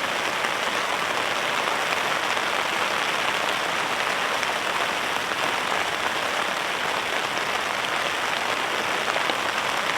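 Steady rain falling, a dense even hiss scattered with faint drop ticks.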